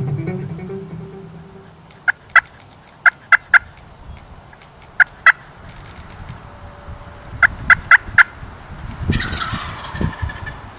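Turkey clucks: short, sharp single notes in a pair, a run of three, another pair and a run of four. About nine seconds in, a wild turkey gobbler gobbles once, a rattling call falling in pitch. Background music fades out at the start.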